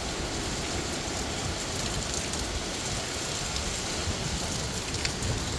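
Heavy thunderstorm rain pouring steadily in a strong wind, an even rushing hiss with a low rumble underneath.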